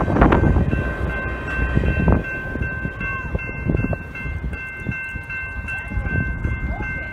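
The tail end of a passenger train rolls past over a grade crossing, its wheels rumbling loudly on the rails and fading away within the first couple of seconds. A grade-crossing bell keeps ringing steadily throughout.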